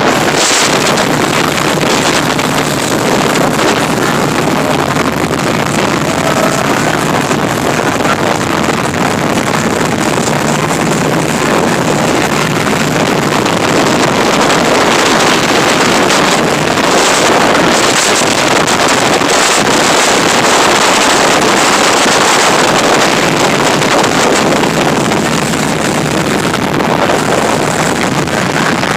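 Speedboat running fast over the water, its engine noise mixed with a loud, steady rush of wind on the microphone.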